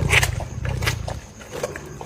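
Big cat's low, rumbling growl that breaks off about a second and a half in, with a few short sharp clicks over it.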